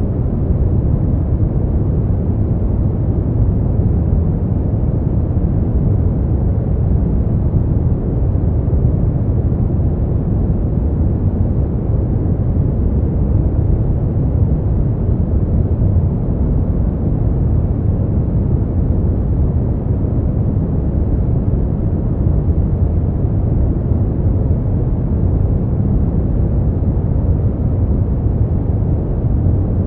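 Steady brown noise: a constant, deep rushing hiss weighted toward the low end, with no changes.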